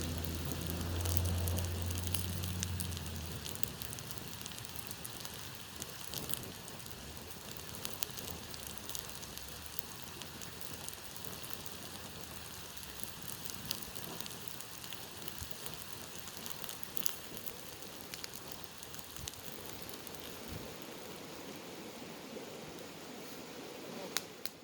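Campfire crackling: a steady hiss with scattered sharp pops and snaps from the burning wood. A low rumble sits under it for the first few seconds, then fades.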